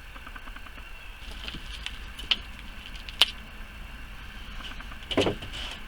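Handling and rummaging among items pulled from an old freezer packed with soil and twigs: faint scraping and rustling, two sharp clicks about two and three seconds in, and a louder brushing sound near the end.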